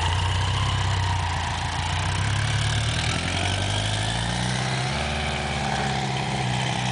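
1985 BMW K100's inline four-cylinder engine idling soon after being started for the first time in a long while. Its engine speed rises about three seconds in and settles at a steady higher idle.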